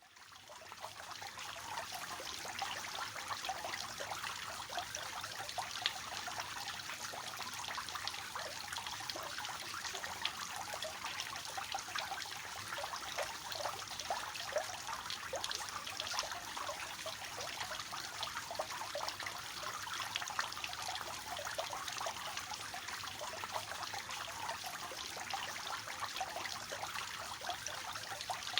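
Water falling from a three-tiered garden fountain, a steady splashing trickle that fades in over the first second or two.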